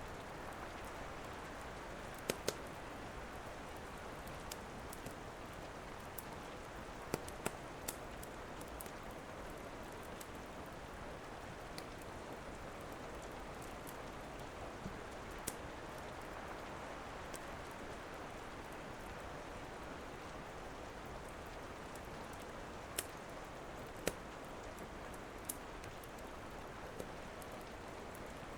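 Steady rain with an occasional sharp pop or crackle from a wood fire, single or in pairs, several seconds apart.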